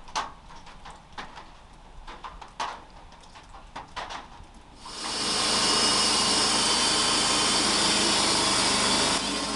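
Wood-Mizer band sawmill cutting western red cedar. Scattered light knocks and clicks sound over the mill's steady running hum, then about five seconds in the blade enters the log and a loud, steady sawing noise takes over.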